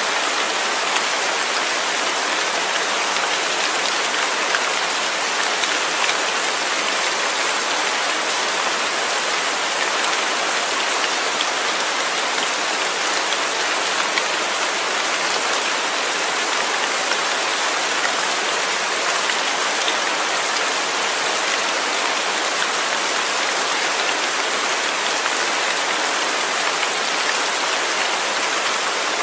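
Steady falling rain, an even hiss with faint pattering of drops.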